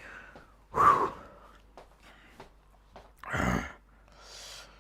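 A man's audible breaths and sighs, three of them: a sharp breath about a second in, a heavier breath around three and a half seconds, and a softer airy exhale near the end.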